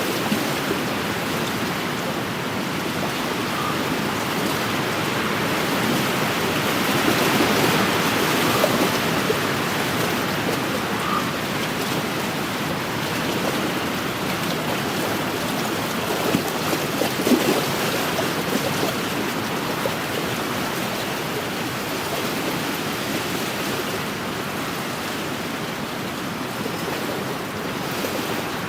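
Small wind-driven lake waves lapping and splashing against the shore: a steady rushing wash that swells for a couple of seconds near the start, with a few louder splashes, the biggest about seventeen seconds in.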